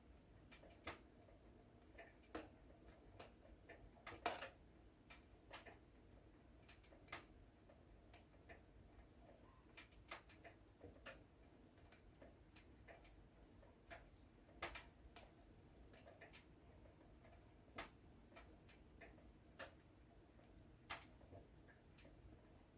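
Wood fire in a fireplace crackling: irregular sharp snaps and pops, one or two a second and a few louder ones, over a faint low rumble and hiss of the burning logs.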